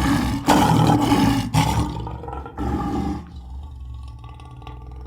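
Sweetums, the Muppets' giant monster, roaring in a voice actor's rough, growling monster voice: several loud roars in the first three seconds, then a quieter, lower rumbling growl.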